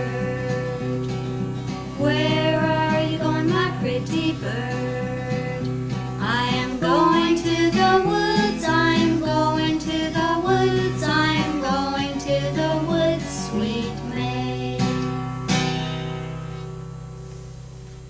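Acoustic guitar strummed through the song's closing bars, then ringing out and fading near the end.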